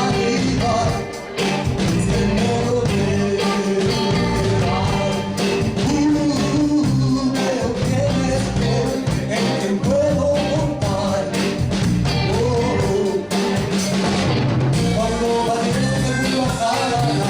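Blues band playing an instrumental passage: a lead line bending in pitch over a steady rhythm of bass and drums.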